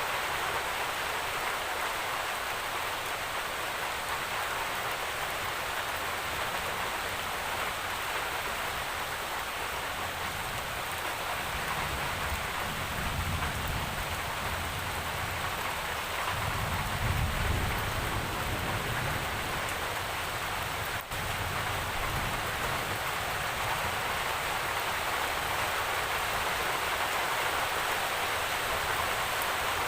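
Steady rain falling, an even hiss of drops with no pauses. Low rumbles swell up twice in the middle.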